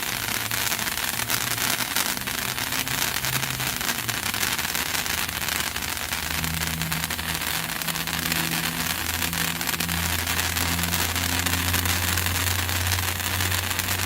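Patriot Stick, a large sparkler-type novelty firework, burning with a dense, steady crackling fizz of sparks. A low hum runs underneath, growing louder about six seconds in.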